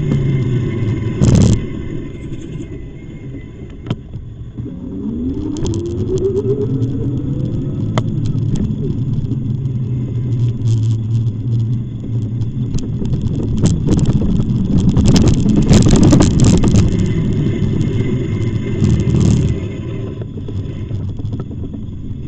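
Steady low rumble of riding noise on an e-bike, with a whine that rises in pitch a few seconds in and a louder, rougher stretch past the middle.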